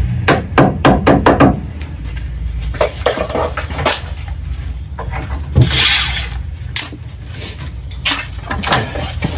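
Wooden pieces knocking and clattering as they are handled and fitted, with a quick run of sharp taps in the first second and a half, scattered knocks after, and a short scrape about six seconds in. A low steady hum runs underneath.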